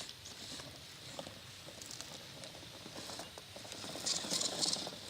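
Tires and chassis of an RC rock crawler working over rock: scattered small clicks and scrapes, with a louder scratchy scrabble near the end.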